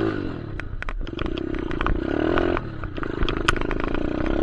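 Small dirt bike engine running under the rider, its pitch dropping at the start, then rising and falling as the throttle is worked about two seconds in, with scattered rattling ticks.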